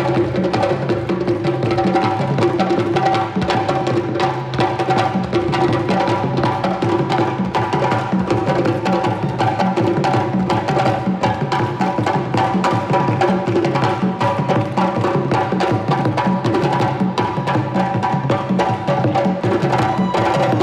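A parade drum ensemble playing African-style percussion: many fast, dense drum and wood-block strikes in a steady driving rhythm, with steady pitched tones sounding underneath.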